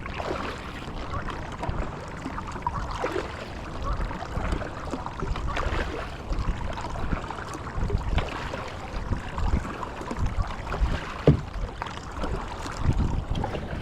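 Water sloshing and splashing around a kayak, with wind rumbling on the microphone. A single sharp knock about eleven seconds in.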